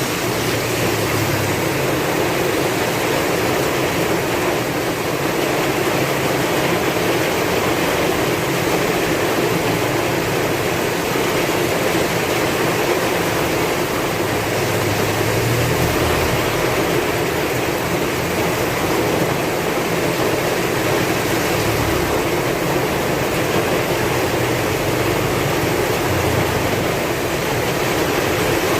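Heavy rain falling steadily in strong wind, a dense even hiss with a low rumble that swells now and then.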